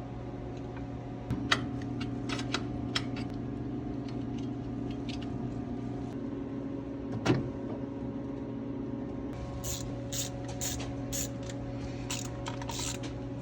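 Metal tool clicks and knocks from hand tools working on a carburetor's fasteners, with a quick run of ratchet-like clicks near the end, over a steady hum.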